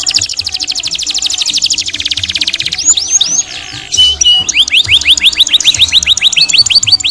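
Domestic canary singing continuously: a very fast rolling trill of rapid high notes, then a few separate notes and a short held whistle, then a run of rising chirps about six a second.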